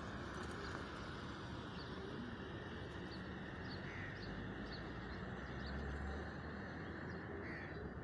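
Birds calling with short, high chirps scattered throughout, and two slightly lower calls about halfway and near the end, over a steady background of outdoor noise.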